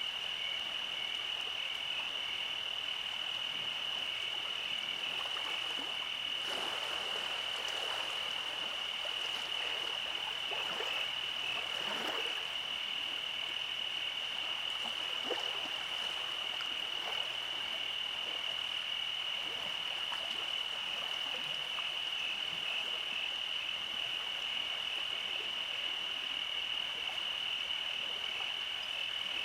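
Night chorus of frogs and insects: a steady high-pitched trill throughout, with frogs croaking now and then, most of the croaks coming in the first half.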